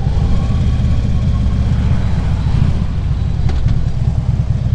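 Harley-Davidson V-twin motorcycle engine running steadily under way, a dense low rumble with wind and road noise over it.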